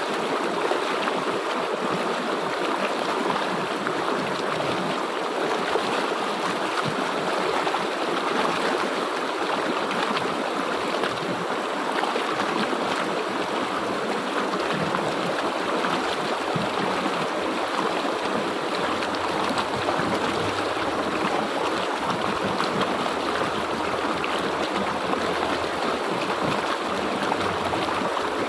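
River water flowing and splashing over rocks in a steady rush.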